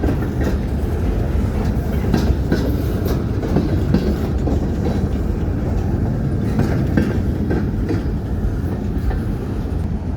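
Freight train rolling past: a steady heavy rumble with scattered clicks of the wheels going over rail joints.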